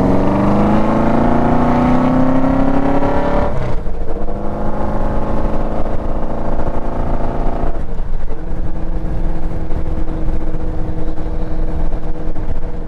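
Motorcycle engine pulling up through the gears: the pitch climbs for about three and a half seconds, drops at an upshift, runs on, drops at a second upshift about eight seconds in, then settles into a steady cruise.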